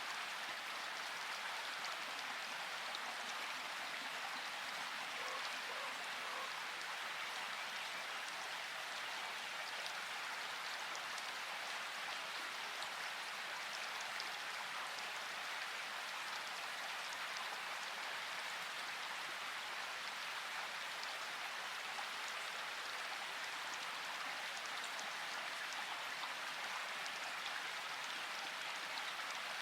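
Steady rainfall: a constant even hiss of rain with fine scattered drop ticks, unchanging in level.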